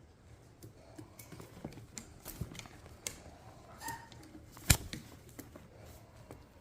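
Scattered light clicks and taps, with one sharp, much louder click past the middle and a brief faint chirp just before it.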